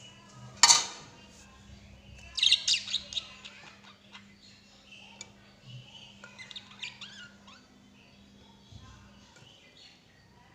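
Lovebirds chirping in quick clusters, with one loud call just under a second in. There are bursts of rapid chirps about two and a half seconds and about seven seconds in.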